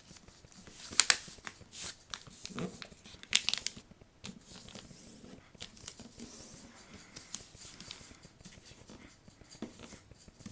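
A sheet of paper being folded and creased by hand: several sharp crinkles and crackles in the first few seconds, then a softer, longer rubbing rustle as the fold is pressed flat, with a few light crackles near the end.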